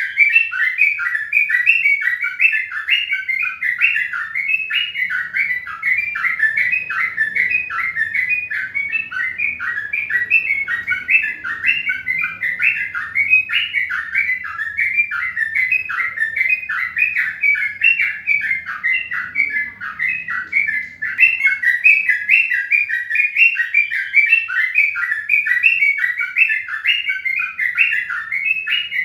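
Birds chirping: a dense, unbroken stream of short, high chirps, several a second.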